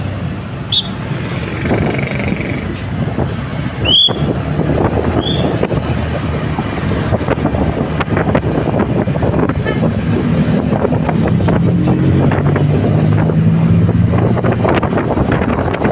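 Motorcycle engine running while riding, with wind buffeting the microphone; the engine's low hum grows clearer in the second half, and there is a sharp knock about four seconds in.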